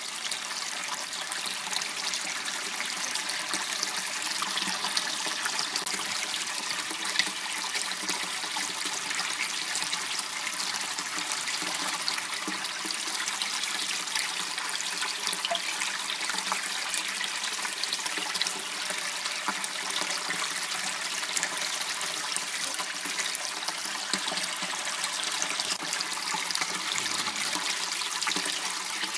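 Water flowing in a small channel, a steady trickling rush.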